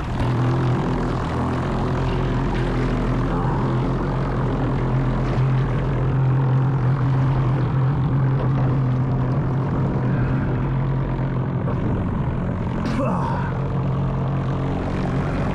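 Electric motor on a fishing kayak running steadily, a constant hum with a noisy wash of water and wind underneath.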